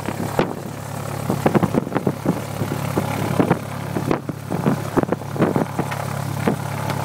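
A single-engine light airplane's piston engine and propeller running steadily, heard inside the cabin as a constant low drone. Irregular short crackles come and go over it.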